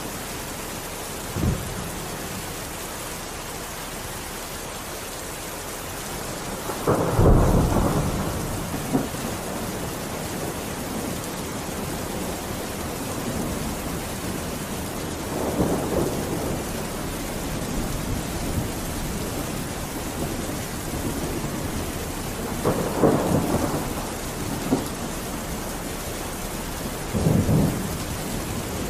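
Steady rain with several short low rumbles of thunder breaking through. The loudest comes about seven seconds in.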